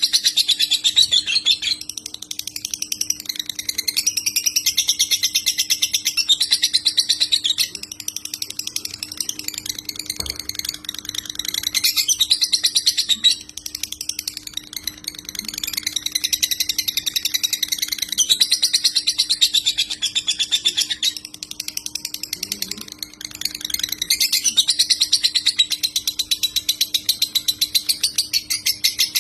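Lovebird singing a fast, buzzing chatter in long continuous phrases, the erratic 'konslet' style of song that bird keepers play for training, with short breaks about 8, 13 and 21 seconds in. A faint steady hum runs underneath.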